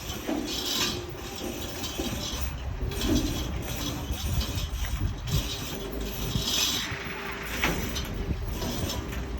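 Low steady rumble of a running vehicle engine with recurring bursts of rushing, clattering noise.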